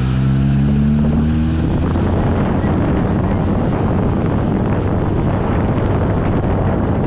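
Classic car's engine running on the road with heavy wind buffeting the microphone; the engine note rises briefly over the first couple of seconds, then settles into a steady rushing drone.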